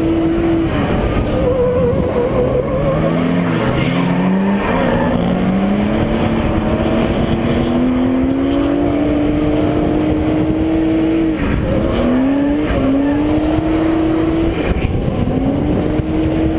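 Nissan RB inline-six in an S13 drift car running hard. The revs climb slowly through the middle, then drop sharply and pick up again several times near the end as the driver lifts and gets back on the throttle. Tyre noise runs underneath.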